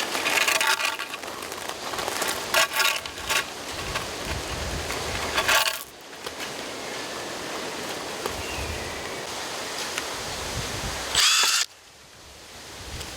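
Drill boring a 3 mm hole into a bamboo tube in several short bursts over the first six seconds, then a brief, louder high whine about eleven seconds in.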